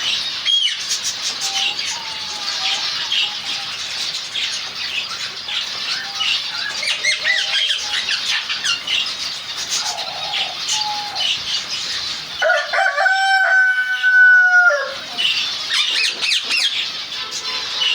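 A colony of finches chirping constantly, with many short, high calls overlapping and some wing flutter. About twelve and a half seconds in, one longer, lower call holds a steady pitch for about two seconds while the chirping drops away.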